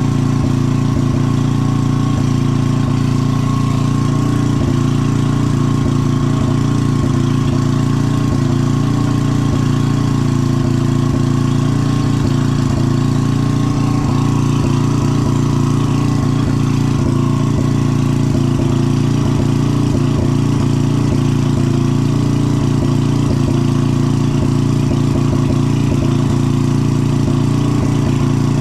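A loud, steady machine drone with a low hum, switched on just before and running unchanged, from the noisy equipment used to heat the joint for soldering.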